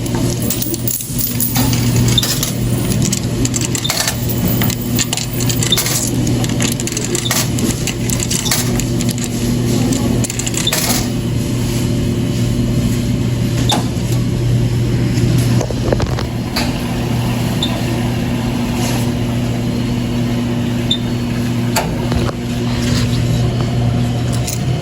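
A steady mechanical hum, with short clicks and knocks scattered through it.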